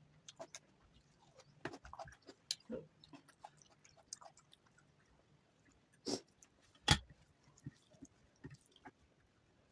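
Close-miked eating sounds of someone chewing soft Indian food: wet mouth clicks and lip smacks scattered throughout, with two louder sharp smacks about six and seven seconds in.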